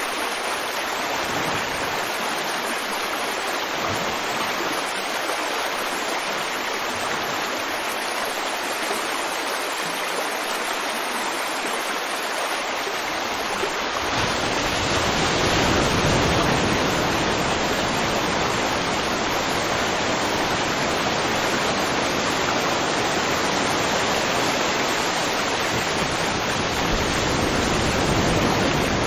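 River water flowing in a steady rush. About halfway through, the sound becomes fuller and deeper with more low rumble.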